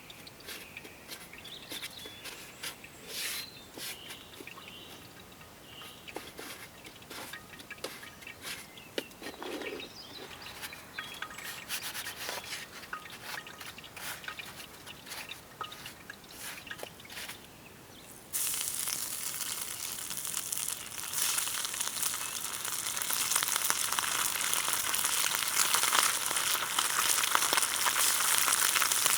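Light handling clicks and taps with faint bird calls, then about two-thirds of the way in a pan of hot oil suddenly starts sizzling as fish goes in, the frying crackle growing louder.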